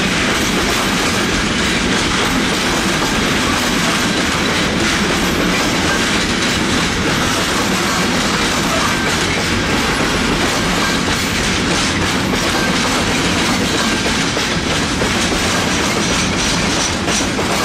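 Freight train of container flat wagons rolling past, a steady loud noise of wheels running on the rails that eases slightly near the end as the last wagon goes by.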